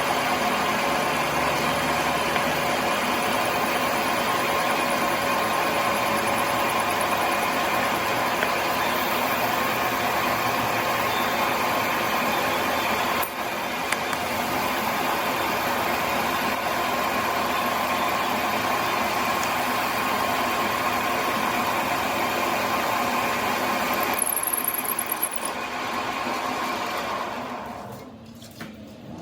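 A machine running steadily with a constant pitched whine and noise. It dips briefly about halfway through and fades away near the end.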